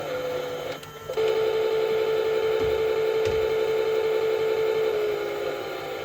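Washing machine motor running with a steady whine; about a second in it drops out briefly, then comes back louder and slightly lower in pitch until about five seconds in, when it eases back to a quieter hum, as the drum stops and turns again during the wash.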